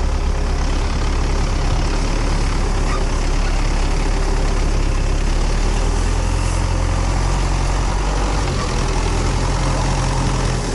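Diesel engine of an MTZ loader tractor running steadily with a low hum; its note shifts slightly about halfway through.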